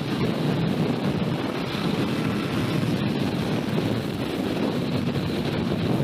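Steady wind rushing over the microphone of a motorcycle-mounted camera at speed, with the bike's running noise blended in.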